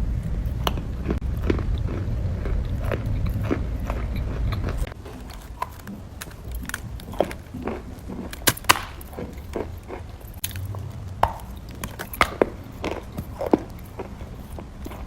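Someone biting and chewing crunchy chalk close to the microphone: sharp, irregular crunches. A low rumble sits under them and stops about five seconds in.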